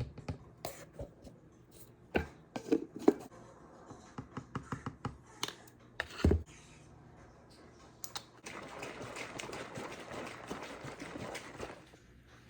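Clatter of kitchen things being handled: scattered clicks and knocks with one louder knock about six seconds in. Then a steady rushing noise runs for about three seconds and stops abruptly.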